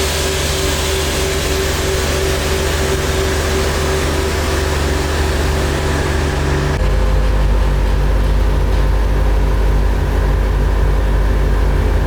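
A vehicle engine running steadily with a deep low hum; the sound changes abruptly about seven seconds in, turning to a lower, pulsing rumble.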